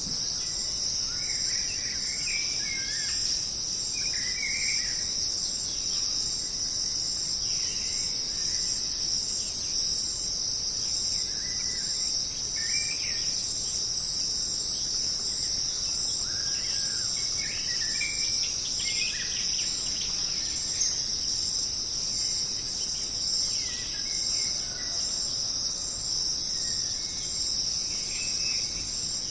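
Jungle ambience: a steady, high-pitched chorus of insects, with short bird calls scattered through it every second or two.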